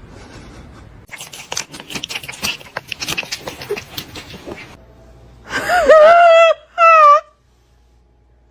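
Crackling, rustling clicks for a few seconds, then a cat meowing twice, loudly: one long, wavering meow and a shorter one.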